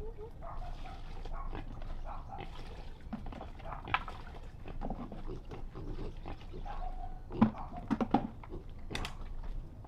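Irregular animal calls, with a few sharp knocks, the loudest about three-quarters of the way through.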